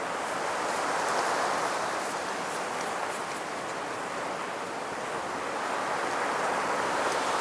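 Wind rushing through woodland trees in gusts, swelling about a second in and again near the end.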